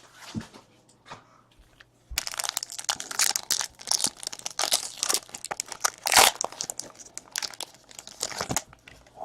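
Trading card pack wrapper being torn open and crinkled by hand, a dense crackling that starts about two seconds in and stops shortly before the end.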